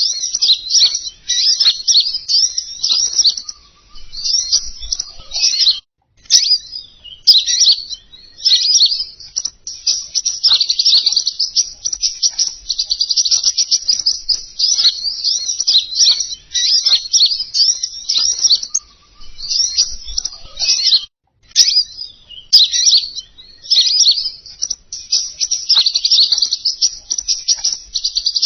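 Recorded bird song played as a trapping lure for the bird known as 'King Konin': rapid high chirps and trills in dense, unbroken runs, pausing briefly twice.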